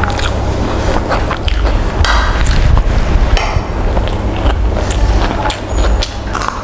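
Close-up eating sounds: chewing and biting food, with irregular short crunches and clicks over a steady low rumble.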